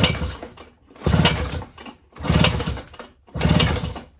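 Mercury 2.2 hp outboard engine cranked with its pull-start rope for a compression test: four pulls about a second apart, each a short whirring burst of the engine turning over without firing.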